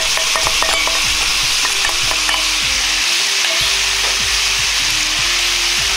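Pork and bean sprouts sizzling steadily in a hot frying pan as a soy-sauce-based seasoning sauce is poured over them.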